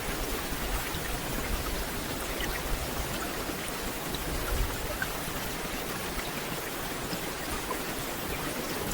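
Steady rain falling on forest foliage, an even hiss with scattered individual drop ticks and a low rumble underneath.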